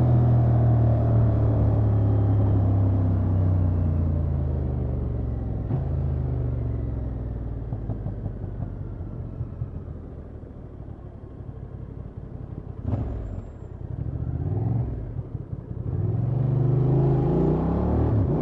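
Honda XL750 Transalp's parallel-twin engine through its stock exhaust, with the revs falling as the bike slows. It runs low and quiet for a while, gives a couple of short blips, then pulls away with the pitch rising near the end.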